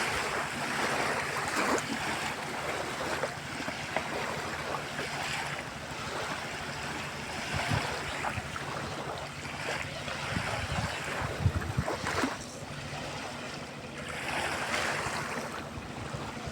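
Open water washing in slow swells every few seconds, with wind buffeting the microphone and a few low thumps in the middle.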